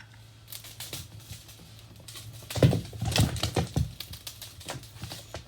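A cat pawing at a bell, making a run of light taps and clicks, busiest and loudest from about halfway through; no clear ring of the bell.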